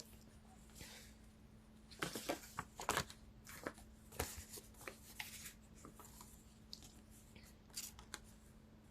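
Tarot cards being handled: a series of short, crisp rustles and flicks of card stock, clustered in the middle with a few more near the end, over a faint steady low hum.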